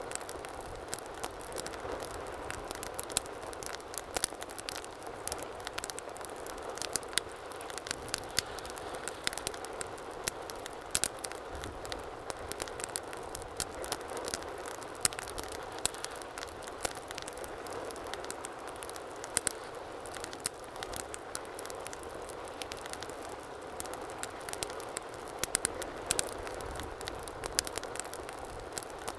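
Wood fire burning in a fireplace, with frequent sharp crackles and pops scattered over a steady low hiss of flames.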